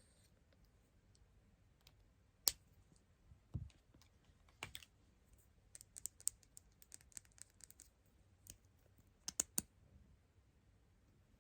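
Irregular sharp clicks and light taps of small craft tools and parts on a smartphone. A low thud comes a bit over three seconds in, a run of quick clicks around the middle, and three clicks close together near the end.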